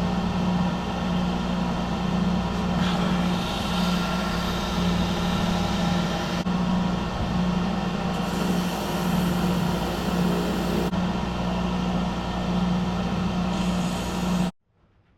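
Shop vacuum running steadily, cleaning up sanding dust, with a constant low hum; it switches off suddenly near the end.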